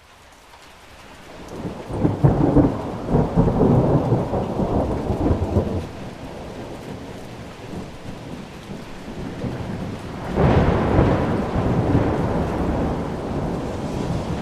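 Steady rain with two rolls of thunder: the sound fades up from silence, a first rumble breaks about two seconds in and lasts a few seconds, and a second one starts about ten seconds in and trails off slowly.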